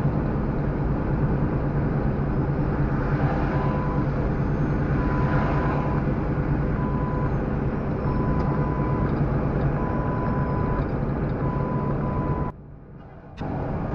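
Steady drone of a semi-truck's engine and road noise while driving, overlaid by a series of about six high, pure-tone beeps, each half a second to a second long. The sound drops out briefly for about a second near the end.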